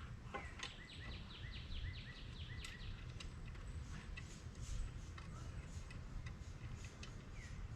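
A bird calling: a quick run of short chirps, about four a second, over the first three seconds, with a couple more near the end. Faint scattered clicks under it.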